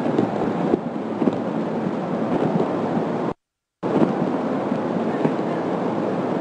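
Typhoon wind and heavy rain buffeting the microphone: a dense, steady rush of noise with scattered sharp knocks. The sound cuts out completely for about half a second a little past the middle.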